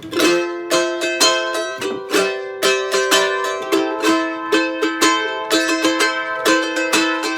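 Charango strummed in a steady rhythm, about three strokes a second over ringing chords: the instrumental introduction of a song.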